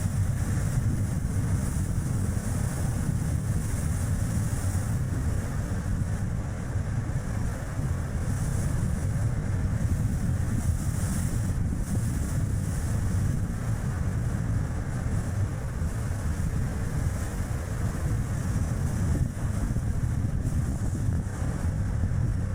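Steady wind noise on the microphone in strong gusty wind, mixed with the road and tyre noise of a Chevrolet Spark light car driving, heaviest as a low rumble.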